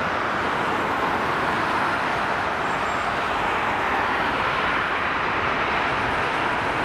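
Jet engine noise from a Boeing 737-800's CFM56-7B turbofans on the landing roll, a steady rushing sound that holds even throughout.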